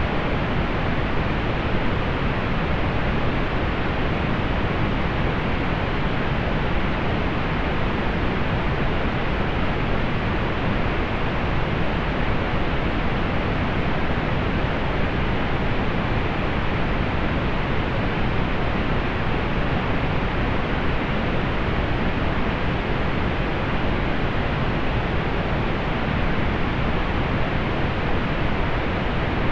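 Steady, unchanging pink noise: an even hiss weighted toward the low end, with the highs rolled off.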